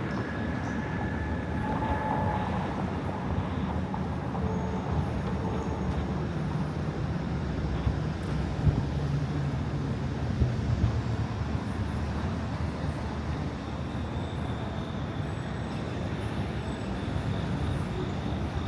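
City street ambience: a steady low rumble of traffic that swells in the middle, with a few short knocks.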